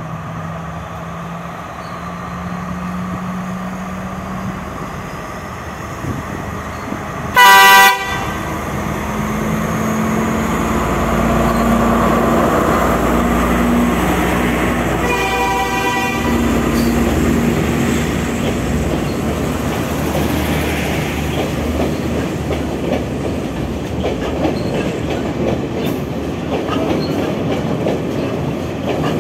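Diesel express train pulling away from a station: the engine runs and climbs in pitch as it picks up, with one short, very loud horn blast about seven seconds in and a quieter, longer horn about fifteen seconds in. The carriages then roll past with the wheels clacking over the rail joints.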